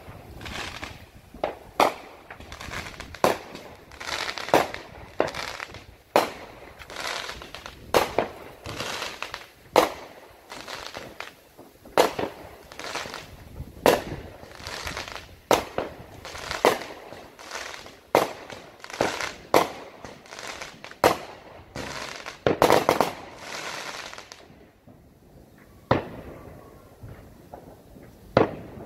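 Aerial fireworks going off in a steady string of sharp bangs, about one every second or so, ending in a dense flurry about 23 seconds in, then two last bangs near the end.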